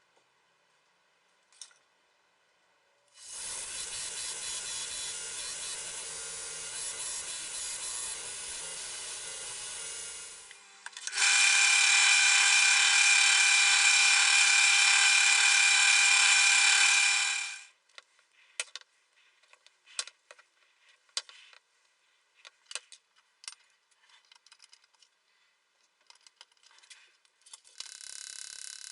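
A power tool runs in two spells. First comes about seven seconds of hissing running, then, after a brief break, a louder steady whine for about six seconds. Scattered light clicks and taps follow, and the tool starts again near the end.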